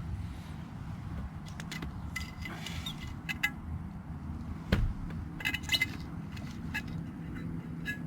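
Metal cooking utensils clinking and tapping against an iron griddle: scattered light clicks, a louder knock near the middle, then a quick run of clinks, over a steady low rumble.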